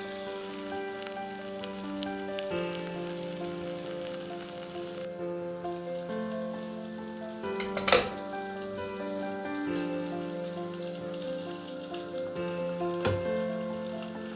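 Food sizzling as it fries in a pan, under background music of slow held chords. There is one sharp knock about eight seconds in and a lighter one about five seconds later.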